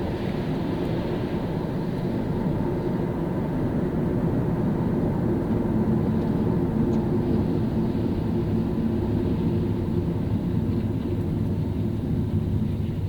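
Car driving on wet road in the rain: steady tyre and road noise with a low rumble that swells slightly in the middle.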